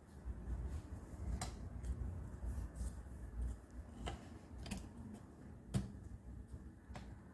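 A few light, scattered clicks and taps of workbench handling over a low hum.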